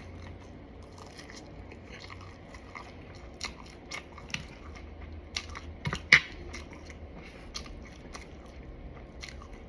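A person chewing and biting into fried food close to the microphone, with scattered small crunches. A low steady hum sits underneath.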